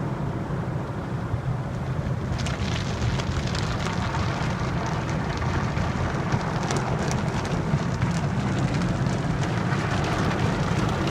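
Water and foam spraying onto a car passing through a Coleman Hanna car wash tunnel, heard from inside the car over a steady low hum of the tunnel equipment. About two and a half seconds in, the spray gets heavier and patters on the bodywork like rain.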